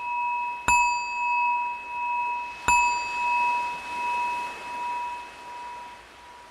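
A meditation bell struck twice, about two seconds apart, each strike ringing on with a slow wavering pulse and fading away over a few seconds; the strikes mark the close of the meditation practice.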